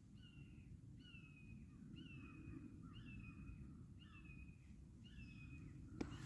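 A bird calling in a steady series: six clear, slightly falling calls about a second apart, faint over the low rumble of open-air background noise.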